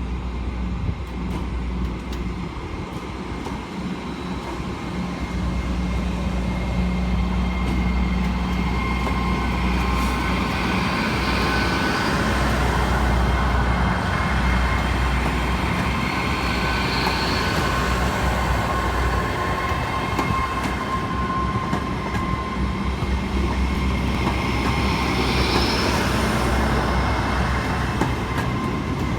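A train running at the station, with a steady low engine hum that grows louder about six seconds in and a few brief high-pitched wheel squeals.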